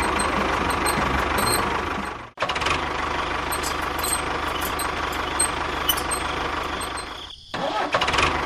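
A small engine running steadily, cut off abruptly about two seconds in and picking up again straight away, with another break near the end.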